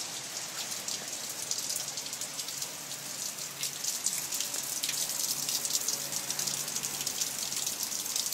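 Rain falling steadily: a high, even hiss with many small drop impacts, growing denser and louder about four seconds in.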